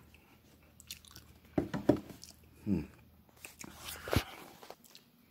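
A person eating baked potato close to the microphone: chewing and biting, with a few sharp clicks and a louder knock about four seconds in.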